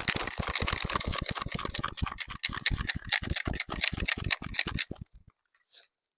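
Dirt sifter shaken back and forth to sift soil over a set trap, rattling in a fast, even rhythm of about six strokes a second, which stops about five seconds in.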